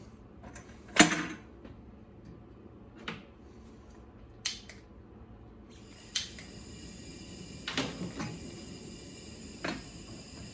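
A few separate clicks and knocks of hard objects being handled, the sharpest about a second in; a faint steady hiss comes in about halfway through.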